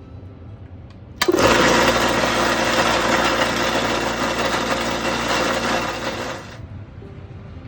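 A 100V electric air compressor starts abruptly about a second in, runs loudly and steadily for about five seconds, then shuts off.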